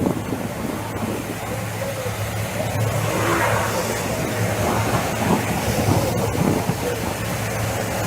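Steady low hum of an idling vehicle engine under a noisy background, with faint voices in the middle.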